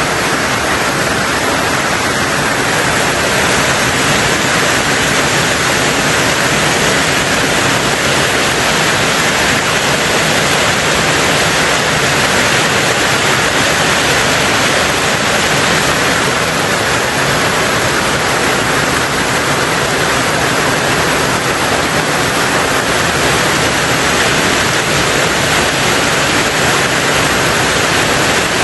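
Steady heavy rain drumming on a tin roof, an even, unbroken hiss of drops with no change in strength.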